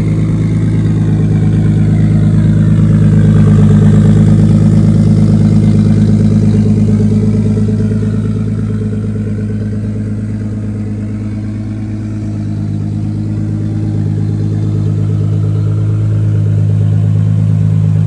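Toyota 2JZ inline-six engine of a drift car idling steadily. Its level swells, dips about two-thirds of the way through, then rises again.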